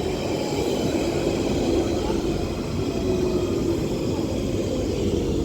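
London Underground Central Line 1992 Stock electric train running into the station. Its steady running noise carries a whine that falls slightly in pitch toward the end as the train slows.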